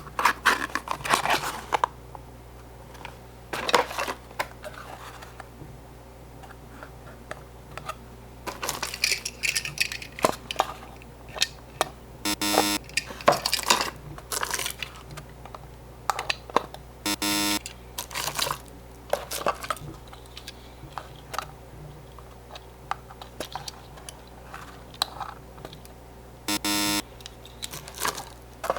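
Small die-cast toy cars clicking and rattling as they are handled, with paper-box rustling and crinkling. Three short buzzing electronic tones sound in the middle and near the end.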